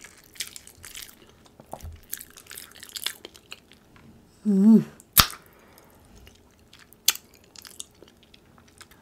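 Close-miked chewing of a mouthful, with small wet clicks and crunches. About four and a half seconds in comes a short hummed "mm" with wavering pitch, followed by two sharp clicks.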